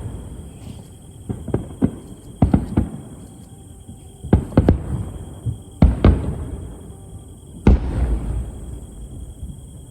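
Aerial fireworks shells bursting overhead: a string of deep booms in clusters of two or three, each with a rolling rumble after it. The loudest comes near the end and has the longest rumble.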